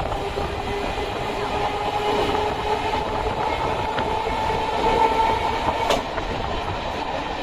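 Suburban electric train running along the track: a steady rumble of wheels on rails with a steady hum, and two sharp clicks, about four and six seconds in, as wheels cross rail joints.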